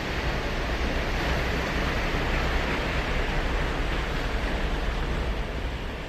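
Ocean surf breaking and washing ashore: a steady rush of waves that swells in the middle and eases a little near the end, over a low rumble.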